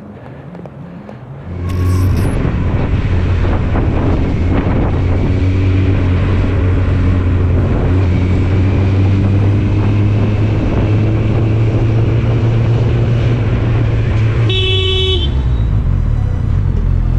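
Motorcycle engine running steadily under way, with road and wind noise. Near the end a vehicle horn gives one short blast.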